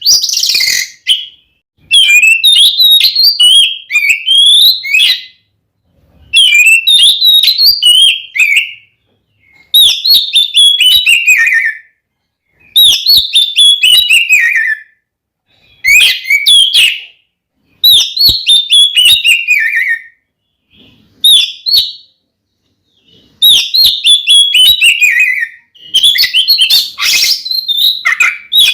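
Oriental magpie-robin (kacer) singing loudly in its fighting song: varied phrases of two to three seconds with many falling whistles and quick chattering notes, each phrase followed by a pause of about a second. This is the challenge song that is played to other magpie-robins to provoke them.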